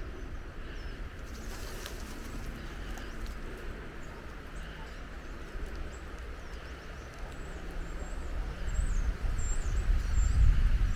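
Outdoor ambience: faint high bird chirps over a steady hiss, with a low rumble building up from about eight seconds in.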